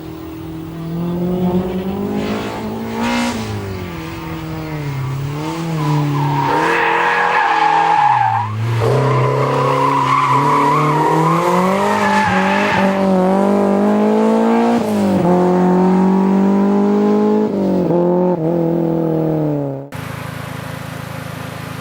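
Four-cylinder performance car engine driven hard, its pitch climbing under acceleration and dropping sharply at gear changes about three times. Near the end it cuts abruptly to a steadier, lower engine note.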